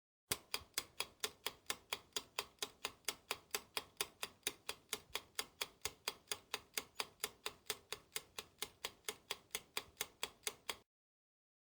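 Clock-ticking sound effect, used as a quiz countdown timer: even, sharp ticks at about four a second that start just after the beginning and cut off abruptly about a second before the end.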